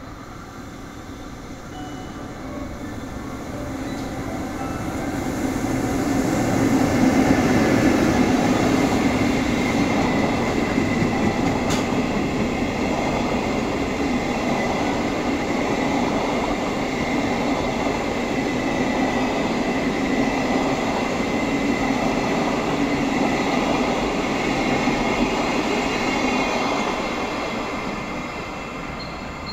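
EF65 electric locomotive hauling a train of Chiki flat wagons loaded with long rails, passing by: the steady rumble of wheels on the track builds over the first several seconds. It is loudest as the locomotive goes by about seven seconds in, holds while the wagons roll past, and fades near the end as the train recedes.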